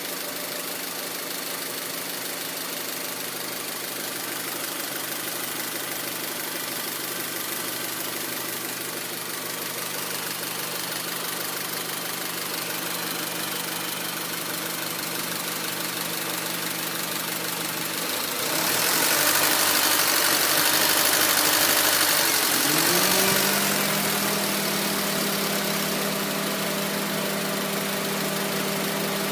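The 2004 Honda Civic's 1.7-litre four-cylinder engine idling, which the owner reports as a rough, low idle and suspects comes from a failing oxygen sensor. About 18 seconds in, a louder rushing noise comes in for a few seconds. Then a tone rises and holds steady at a higher pitch.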